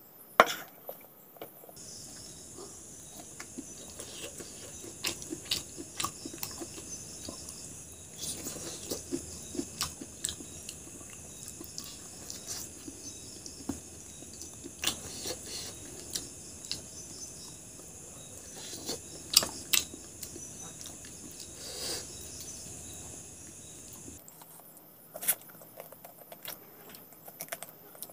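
Close-up eating by hand: chewing and mouth sounds from mouthfuls of rice and chicken gizzard curry, with fingers squishing and mixing rice on the plate. Short sharp clicks and knocks come throughout, the loudest just after the start and about 19 seconds in.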